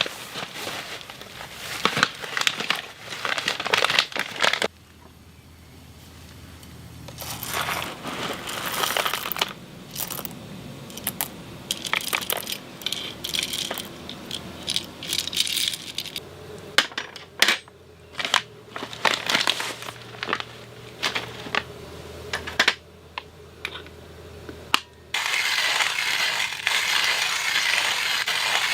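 A series of sharp clicks, knocks and clinks from objects being handled, irregular and close, with a steady hiss taking over near the end.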